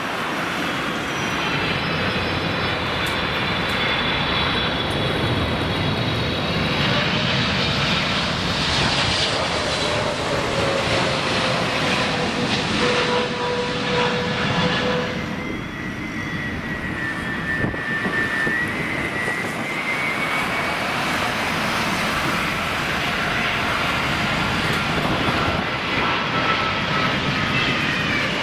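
Jet airliner engines running with a broad rushing roar and whining tones that slowly shift in pitch, as an aircraft passes at close range.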